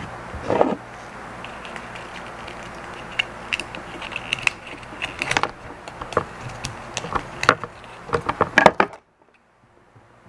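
Irregular clicks and taps of small plastic and metal parts of an electronic counter being handled during disassembly, over a steady low hum. The sound cuts out abruptly about nine seconds in.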